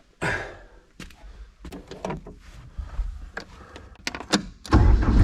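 Scattered clicks and knocks of someone handling a vehicle, then an engine starts abruptly near the end and runs loud and steady.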